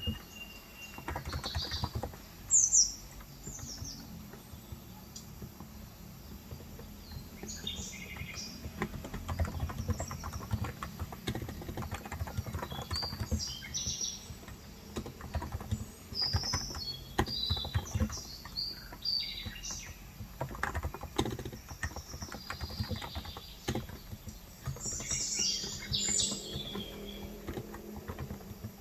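Continuous typing on a Cox Endeavor tenkeyless electro-capacitive keyboard with 35 g keys, with birds chirping in short clusters throughout, loudest about three seconds in.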